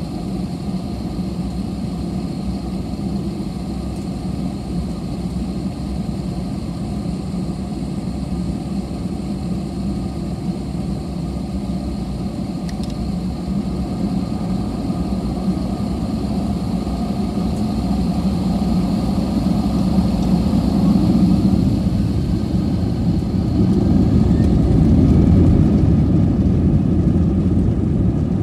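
Airbus A320 jet engines running, heard inside the passenger cabin as a steady roar with a low hum, growing louder in the last third.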